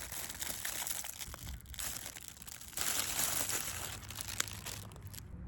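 Crinkling, rustling handling noise close to the microphone, in two spells with a short break about two seconds in, louder in the second spell, stopping near the end.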